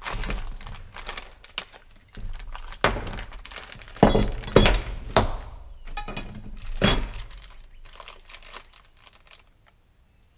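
Chainsaw parts and packaging being handled: plastic crinkling and rustling with irregular knocks and thunks, the loudest cluster about four to five seconds in and another knock near seven seconds, quieter toward the end.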